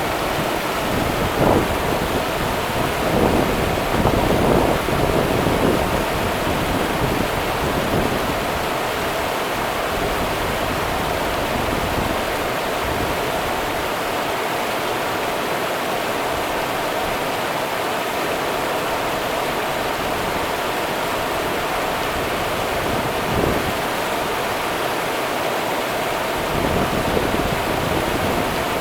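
Rio Grande river water running steadily over rocks, with a few louder splashes in the first few seconds and again near the end.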